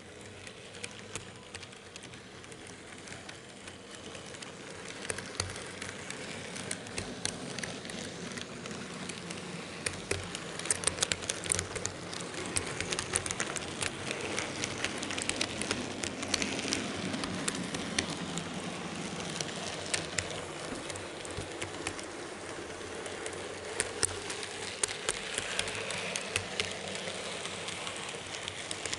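N-gauge model train running along the track, heard from an action camera riding on a camera car: a steady rattling hiss of wheels and motor with many sharp clicks scattered through it, growing louder over the first five seconds or so.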